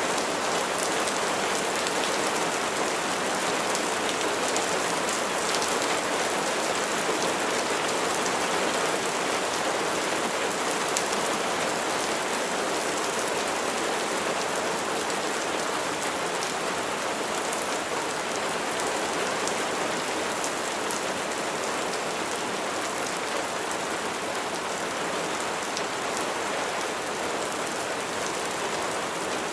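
Steady rain falling on a surface, a dense even hiss of many raindrops with individual drop ticks standing out here and there.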